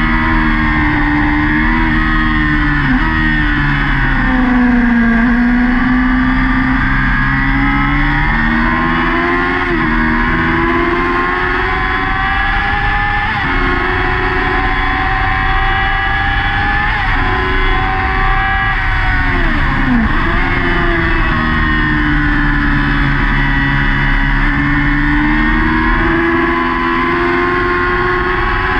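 Yamaha R6 600cc inline-four race bike engine at high revs, heard onboard, its pitch rising through the gears and falling as it slows for corners, with a sharp drop in revs about twenty seconds in.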